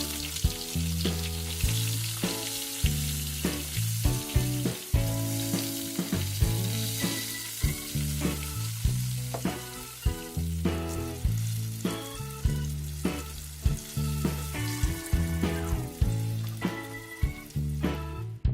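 Nacho chicken pieces frying with a steady sizzle, over background music with a steady beat.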